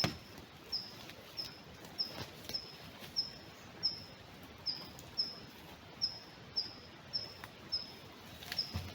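A small bird repeating a short, high chirp about twice a second, steadily and evenly. A few faint knocks and a dull thump near the end.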